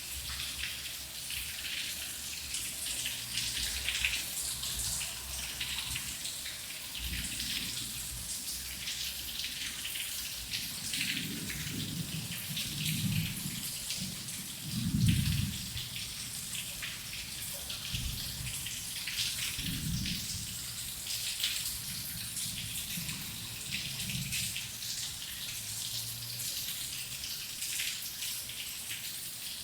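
Heavy rain falling steadily with a dense patter, and low thunder rumbling in the distance. One rumble builds and swells to its loudest around the middle, and a shorter one follows a few seconds later.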